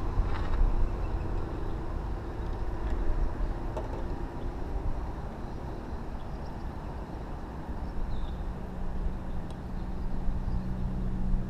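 A steady low rumble of a running motor. A lower, stronger hum comes in about eight seconds in.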